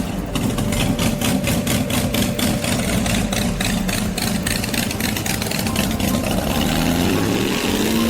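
Tractor engine running, with a rapid, regular pulsing for most of the clip.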